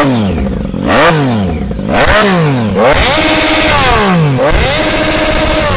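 Triumph Street Triple 675 three-cylinder engine with an SC-Project exhaust, revved in a series of about five quick throttle blips from idle. Two of the blips are held at high revs for about a second before the revs drop back.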